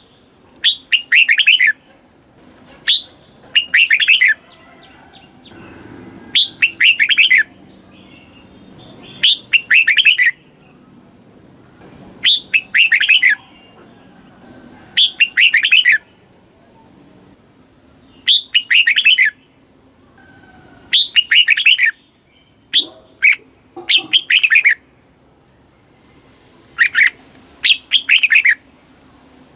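Red-whiskered bulbul singing: short, loud phrases of quick warbled notes, each about a second long, repeated every two to three seconds with brief pauses between.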